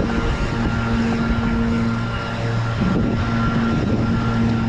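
Riding noise from a bike in motion: a steady hum over an even rumble.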